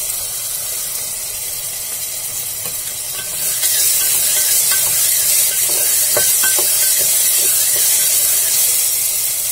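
Chopped onions, ginger-garlic paste and green chillies sizzling in hot oil in an aluminium pressure cooker, stirred with a wooden spatula. The sizzle grows louder about three and a half seconds in, with a few light knocks and scrapes of the spatula against the pot.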